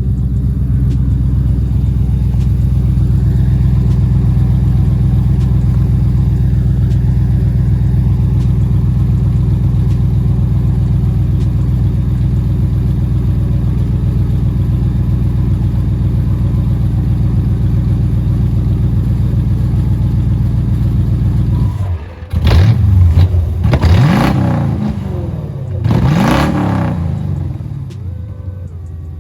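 Swapped-in Ford 4.6 three-valve V8 in a 2001 Mustang GT idling steadily, then revved in quick throttle blips, the engine speed rising and falling about three-quarters of the way through and again shortly after.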